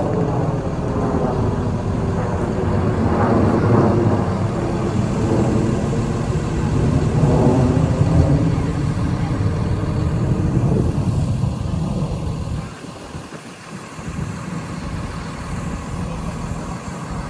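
A vehicle engine accelerating, rising in pitch twice, then falling away sharply about thirteen seconds in, leaving a quieter engine hum.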